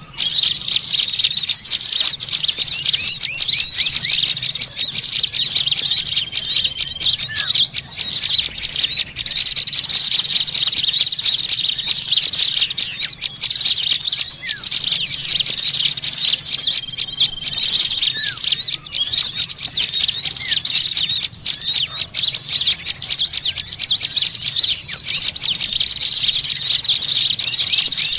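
Many small songbirds chattering and chirping together in a dense, unbroken racket of quick, high, overlapping calls, with a few short steady whistled notes among them. This is a pikat lure recording of a noisy small-bird flock, played to draw in wild small birds.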